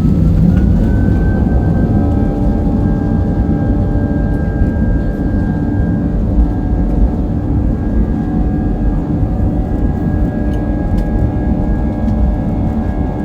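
Airliner jet engines at takeoff thrust, heard inside the cabin: a heavy rumble under a whine that rises during the first second and then holds steady.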